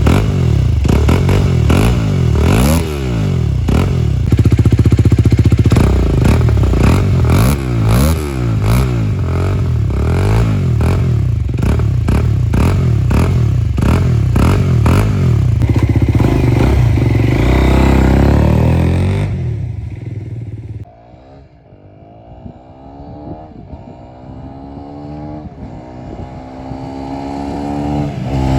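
2020 Aprilia SX 125's four-stroke single-cylinder engine through a Giannelli Ipersport slip-on silencer, revved hard in quick repeated blips. About twenty seconds in it drops away and is heard further off, accelerating up through the gears and growing louder as it comes closer.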